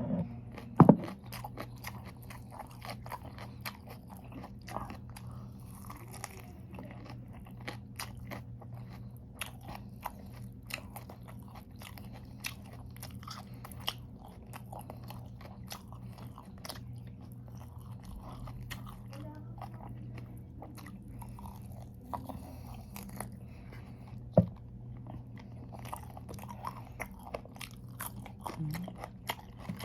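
Close-up chewing with many short crisp crunches, over a steady low hum. There are two louder knocks, one about a second in and one near the end.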